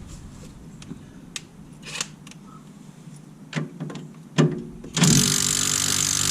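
A few sharp metal clinks of tools on the suspension, then a handheld power tool running steadily for about three seconds, spinning a nut off an upper control arm bolt.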